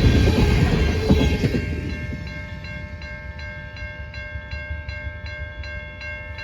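A train passing, its rumble fading over the first two seconds. It gives way to a railroad crossing bell ringing in an even, rapid rhythm of about three strokes a second.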